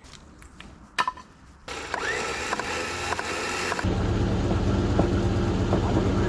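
Mechanical sounds in quick cuts: a few sharp clicks, then metallic squeaking and clanking over a noisy rumble, then a steady low engine drone from about four seconds in.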